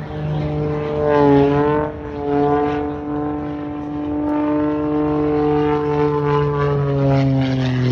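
Propeller airplane engine droning overhead, its pitch wavering briefly about a second in and sliding down near the end as the plane passes.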